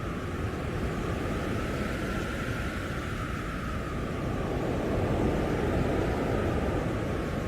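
Blizzard wind howling: a steady deep roar with a faint whistling tone that sinks slowly in pitch.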